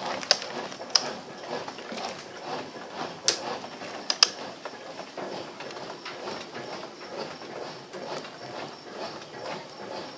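Brastemp BWL07A 7 kg top-load washing machine agitating a low-water load of dish towels, the water sloshing in a steady back-and-forth rhythm, with several sharp clicks in the first half.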